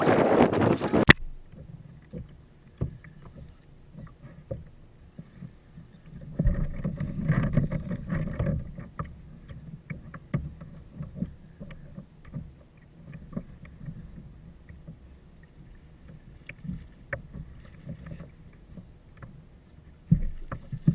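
Water lapping against a Hobie Outback kayak's hull, with small scattered clicks and knocks from the boat and a louder wash of water about seven to nine seconds in. A loud noisy stretch in the first second cuts off abruptly.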